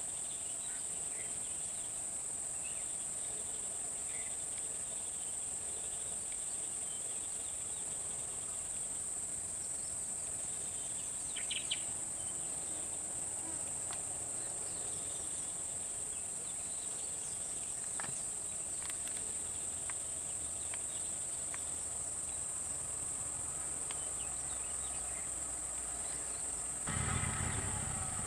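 Steady high-pitched insect chorus, an unbroken shrill drone. A low rumble comes in near the end.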